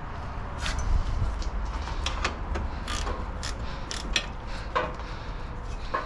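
Ratchet wrench clicking in short, uneven strokes, with light metal clinks of the socket and fasteners, loosening bolts under the hood.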